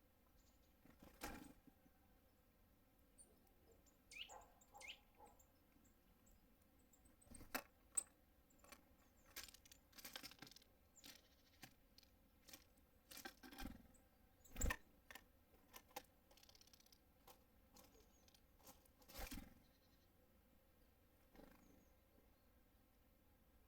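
Faint, irregular taps and knocks of small birds landing on a feeder and pecking at seeds, with one louder knock about halfway through.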